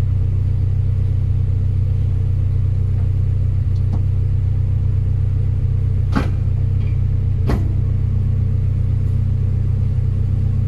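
1996 Honda Civic VTi's 1.6-litre VTEC four-cylinder engine idling steadily, with two sharp clicks about six and seven and a half seconds in.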